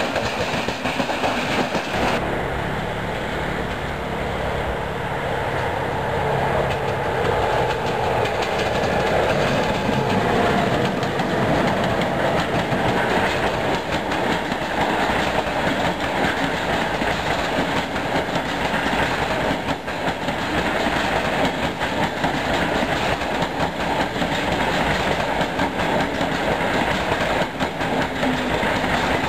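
Trains rolling past on the rails. First, about two seconds of open freight wagons clattering close by. Then, after an abrupt cut, an electric locomotive and a long train of passenger coaches run steadily past.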